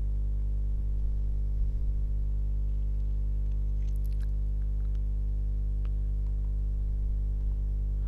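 Steady low electrical hum with a buzzy stack of overtones, unbroken throughout, and a few faint ticks about four and six seconds in.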